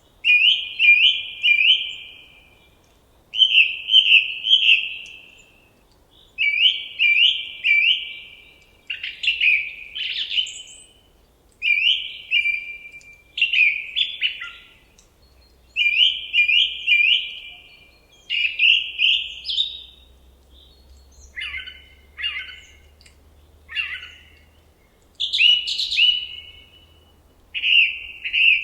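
A songbird singing short phrases of three or four quick, clear notes, repeated every two to three seconds with brief pauses. A few single, lower notes come about two-thirds of the way through.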